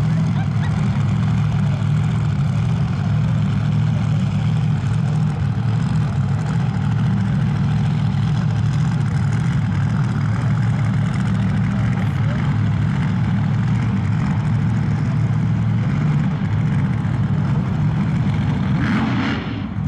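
Drag race car engine idling: a loud, steady low rumble with no revving.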